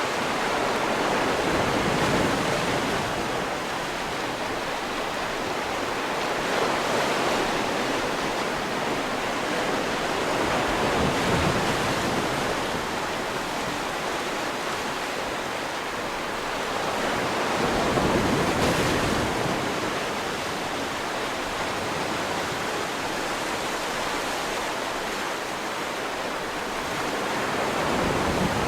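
Sea waves breaking and washing on the shore, a continuous rushing noise that swells and ebbs every few seconds, with wind.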